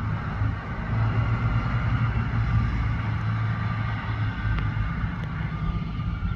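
Garbage truck's diesel engine running steadily, with a faint high whine over the low engine hum.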